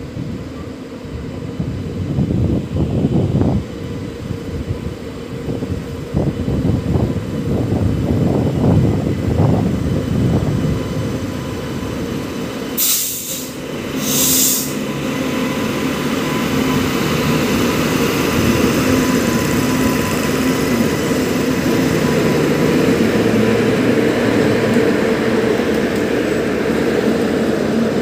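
WAP-7 electric locomotive and its express coaches passing at speed. The wheels clatter over the rails as it approaches, two short high-pitched bursts come as the locomotive draws level about halfway, and then the coaches roll past with a steady rumble that grows louder.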